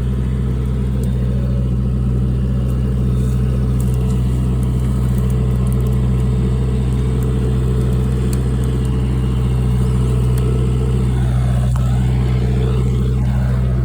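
Motor vehicle engine idling steadily with a low, even hum.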